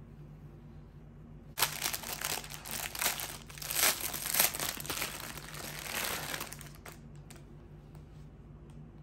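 Crinkling, rustling noise, like plastic or paper being handled, starting about a second and a half in and lasting about five seconds before dying away.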